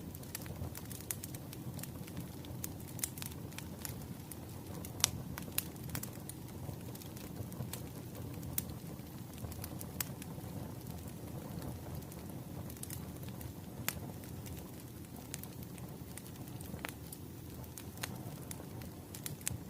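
Wood fire burning with a steady low rush and frequent irregular crackles, with a few louder pops.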